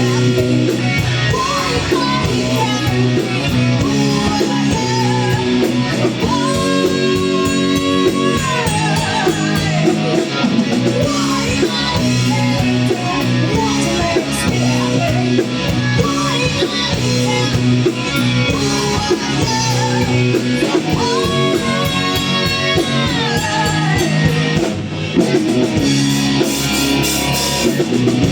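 A live rock band playing, with electric guitar, drums and singing. Twice a long note is held, bending up and then down.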